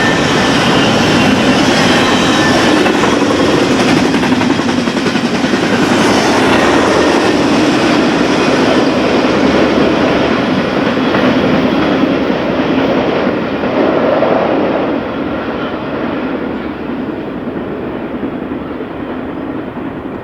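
BNSF intermodal freight train's cars rolling past, wheels clacking over the rail joints with faint wheel squeal. The sound eases off gradually over the last several seconds as the train moves away.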